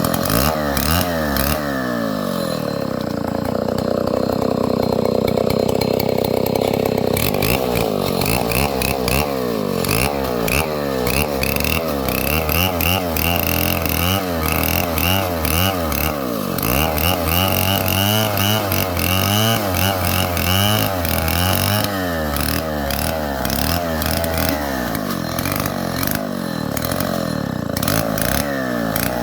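Stihl 070 two-stroke chainsaw running at high revs for several seconds, then revving up and down repeatedly, its pitch rising and falling as the throttle is worked or the chain takes load in the wood.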